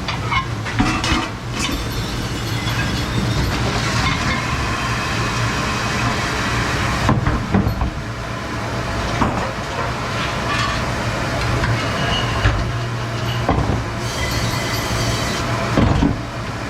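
Dish-room noise in a commercial kitchen: a steady machine hum and hiss, with dishes and racks clattering now and then.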